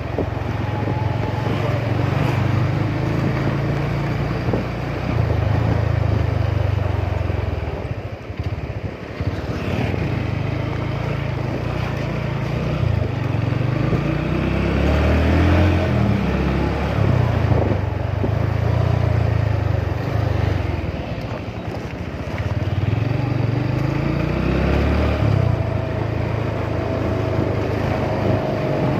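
Motorcycle engine running under way, its note rising and falling over several seconds as the speed changes, with a haze of road noise.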